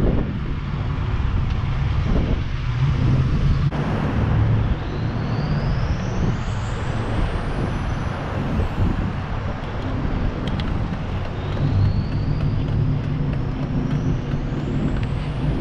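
Wind rushing over the microphone with steady road noise while riding an electric board. A faint high whine rises in pitch twice, about five and about eleven seconds in.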